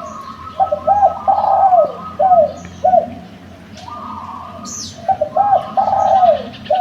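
Spotted dove cooing: two phrases of several arched, repeated coos, the first starting about half a second in and the second near the end.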